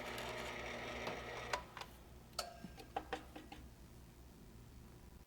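Drill press running as a 1.5-inch Forstner bit bores through a cedar board, a steady motor hum. After about two seconds the sound drops, and several sharp clicks and knocks follow.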